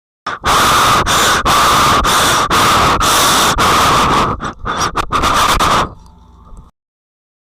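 Loud, harsh scratchy noise right on a microphone, broken by brief gaps about every half second. It drops to a faint rustle near the end and then cuts off.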